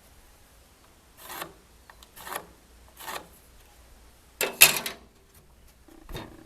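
A hand tool working a piece of wood in about five separate noisy strokes, roughly a second apart; the fourth stroke is the loudest.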